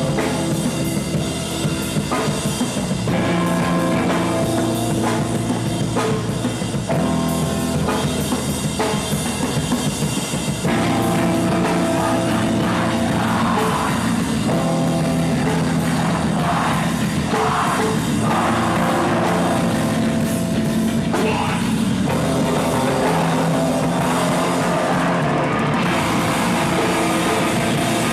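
Live rock band playing, with a drum kit and sustained chords that change every second or two; the sound gets fuller and a little louder about ten seconds in.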